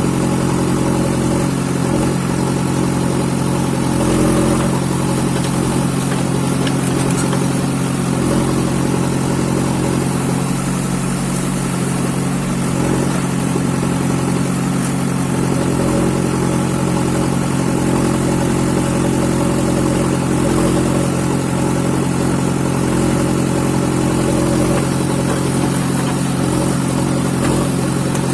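Heavy diesel engine running at a steady speed, with a constant low drone and slight swells in its higher tones.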